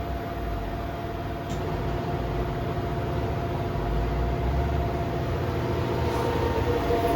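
Samsung washing machine spinning its drum on a newly fitted drum spider, a steady motor hum with a constant whine, growing slightly louder. It runs smoothly without wobbling.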